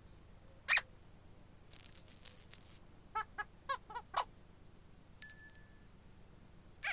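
A string of playful cartoon sound effects on a children's TV soundtrack: a single blip, a brief high rattling shake, about five short bouncy boops in quick succession, then a bell-like ding about five seconds in.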